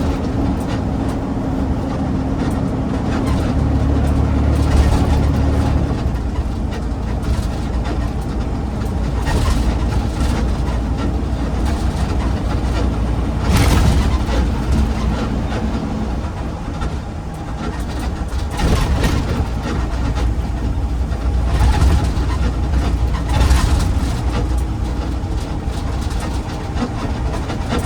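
Garbage truck driving, its engine running steadily under continuous road noise, with several brief bumps and clatters.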